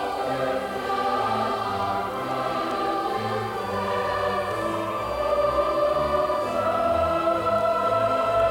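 Music: a choir singing long held notes over a changing bass line.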